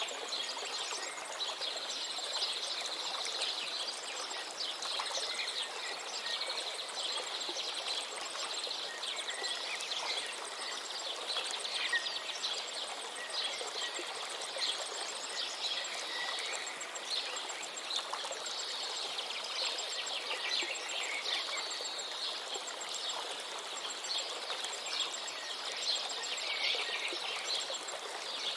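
River water flowing steadily, with many birds chirping and singing over it, and a faint, fast, high ticking repeating through much of it.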